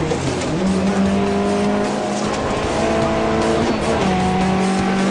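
Škoda 130 LA rally car's rear-mounted four-cylinder engine running hard under load, heard from inside the cabin. Its pitch drops and picks up again about half a second in and again near four seconds in, as the gears change.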